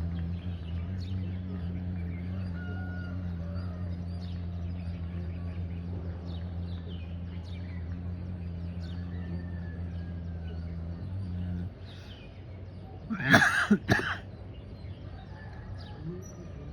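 A long, steady low tone holds for about eleven seconds and then cuts off. Soon after come two loud, sharp calls in quick succession, with small birds chirping faintly throughout.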